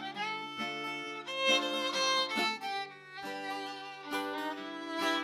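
Fiddle playing a melodic instrumental break in a folk song, over acoustic guitar strummed in a steady rhythm.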